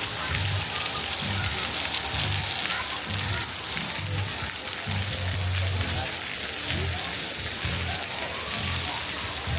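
Steady hiss of falling and splashing water at a resort pool, with faint voices behind it.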